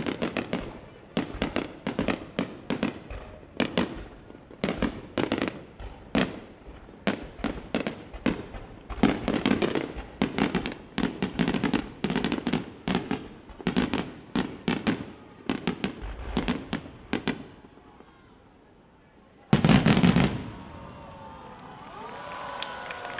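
Aerial fireworks finale: a rapid salvo of shell bursts, several bangs a second, thinning out after about 17 seconds. After a brief lull comes one very loud burst near the end.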